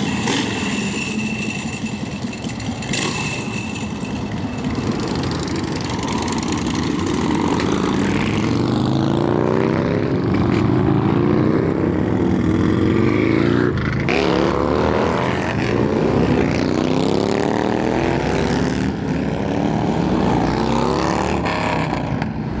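Motorcycle engine revved hard during a burnout, its pitch climbing and falling again and again, louder and busier from about a third of the way in.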